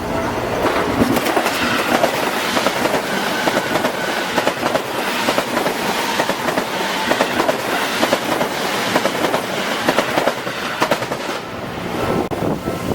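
Seibu Shinjuku Line electric train passing close over a level crossing, its wheels clattering in rapid clicks over the rail joints and points. The clatter eases off near the end.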